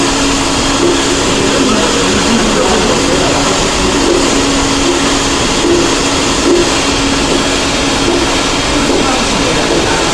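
X46 escalator-cleaning machine running, its rotating brush and dust-suction motor giving a loud, steady noise with a constant hum beneath it.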